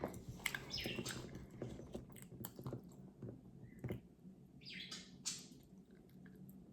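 Small plastic toy figures being handled: scattered light clicks and taps with a couple of brief rustles.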